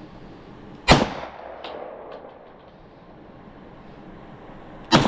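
Two gunshots from a firearm about four seconds apart, each sharp crack followed by a brief echo.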